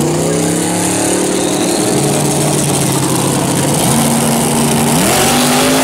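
Drag car's engine held at steady revs on the starting line, its note stepping up in pitch several times as it is brought up for the launch.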